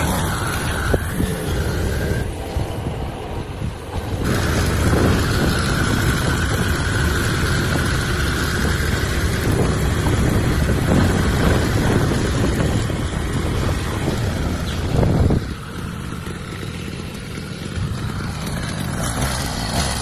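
Small motorized-bicycle engine running as the bike is ridden, a steady mechanical drone with wind noise. The sound changes abruptly about 4 seconds in and again about 15 seconds in.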